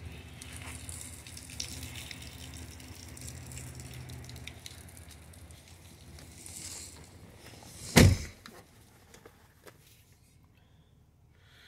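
A 2018 GMC Yukon Denali's door shutting with one loud thump about eight seconds in, after which everything goes much quieter. Before it there is a low steady hum with light rustling and clicks.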